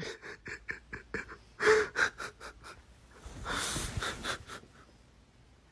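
Dog panting in quick short puffs, about three or four a second, then a longer breathy rush a little past the middle.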